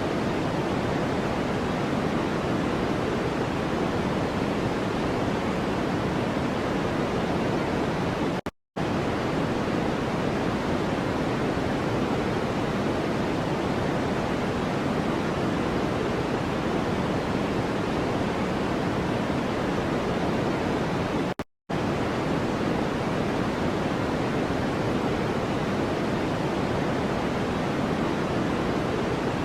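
Continuous steady noise played as a white-noise track, weighted toward the low end so it sounds deeper than pure hiss. It cuts to silence for a split second about 9 seconds in and again about 13 seconds later.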